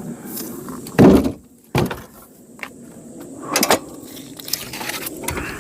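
Firewood logs knocking and thudding: one heavy thud about a second in, a sharper knock just after it, and another knock a little past the middle.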